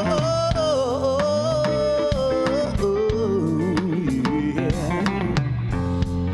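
Live band playing an instrumental stretch of a song: a lead line holds a long note, bends with vibrato, then slides down, over bass and drums.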